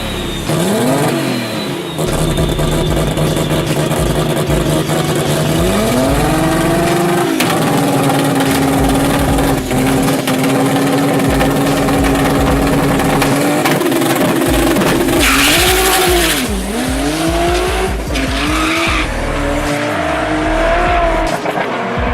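BMW E30 engine revving up and down and held at high revs for several seconds, with tyres squealing as the car drifts. A loud hissing burst comes about fifteen seconds in.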